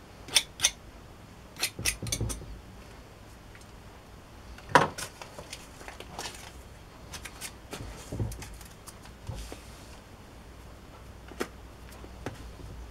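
Irregular sharp clicks, taps and light knocks of small objects and tools being handled on a workbench, with one louder knock about five seconds in.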